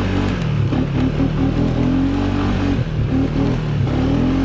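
ATV engine revving hard as it is driven fast, its note dipping briefly several times as the throttle is worked.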